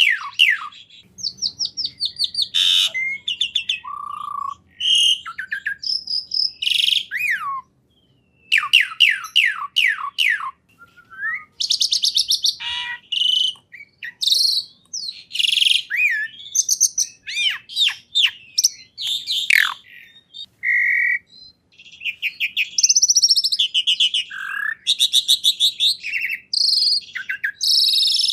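Songbird singing a long, varied song: fast trills, quick falling sweeps and short whistled notes, one phrase after another with only brief pauses.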